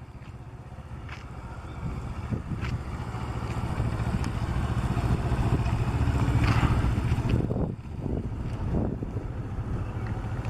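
Kawasaki Ninja 650R's parallel-twin engine running at low riding speed. It grows louder over several seconds as the bike comes near, then drops off sharply about three-quarters of the way through, with wind buffeting the microphone.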